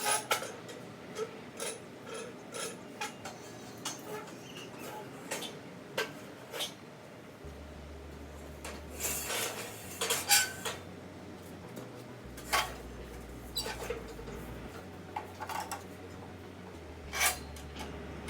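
Scattered light clicks and clinks of hard objects being handled, with a few louder clanks.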